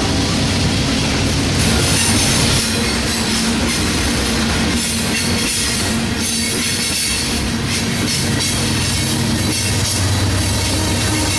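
Train rolling past at close range: wheels running on the rails with some squealing, over a steady low hum.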